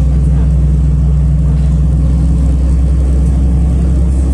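City bus under way, its engine running steadily with a low drone, heard from inside the passenger cabin.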